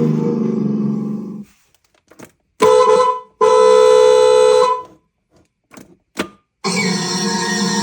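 Recorded Ferrari Enzo V12 engine fading out, then a car horn sounding twice, a short honk and a longer one. A couple of faint clicks follow, and jazz music starts near the end.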